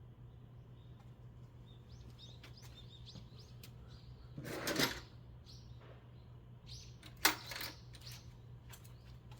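Hand tools and small metal parts clinking and clicking, with a louder metallic rattle about halfway through and a sharp click later, over a steady low hum.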